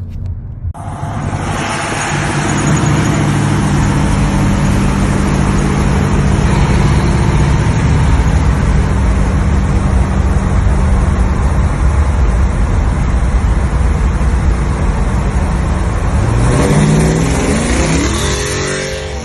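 A vehicle engine running loud and hard, with a steady low engine note under heavy broad noise. It starts suddenly just after the start, and near the end the engine note climbs in pitch as it revs up.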